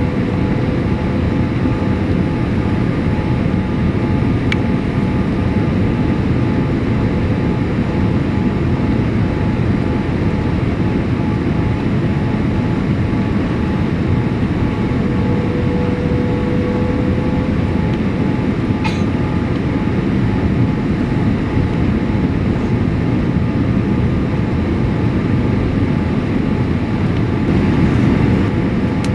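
Steady engine and airflow noise inside the cabin of a Boeing 787-8 with Rolls-Royce Trent 1000 engines, near the end of the flight. It is a dense, even rumble with a few faint steady tones running through it.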